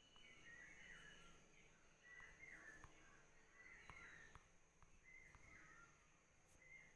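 Near silence, with faint, repeated bird chirps in the background.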